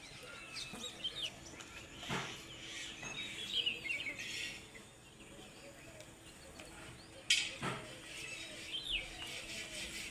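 Birds chirping: many short, quick chirps and twitters, with a sharp knock about 2 seconds in and another about 7 seconds in.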